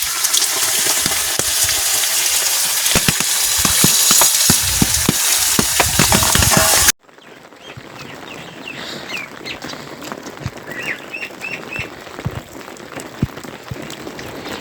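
Heavy rain pouring, a dense hiss full of sharp drop hits, cutting off abruptly about seven seconds in. After that comes a softer patter of rain and drips with a few short bird chirps.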